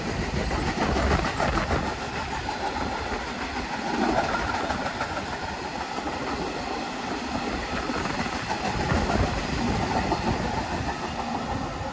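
Freight train hauled by a Class 66 diesel locomotive running past steadily, its wagons rolling by on the rails.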